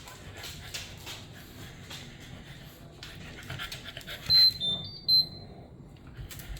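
A short four-note electronic beep tune, each note at a different pitch, about four seconds in: the end-of-cycle chime of a Miele washing machine's control panel. Behind it runs a steady breathy hiss with light clicks.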